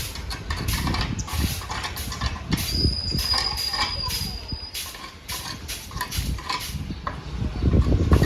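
Road vehicle running with engine rumble and road noise, a steady high tone for about two seconds in the middle, and the sound growing louder near the end.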